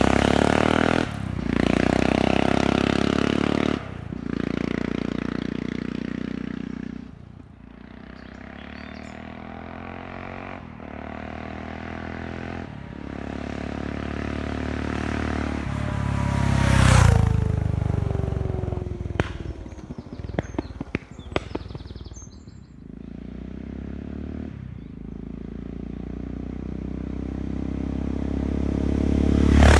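Yamaha XT660Z Ténéré single-cylinder engine pulling through several gear changes as the motorcycle rides off, then coming back and passing close about 17 seconds in, its pitch falling as it goes by. It fades away, then grows louder again as the bike approaches near the end.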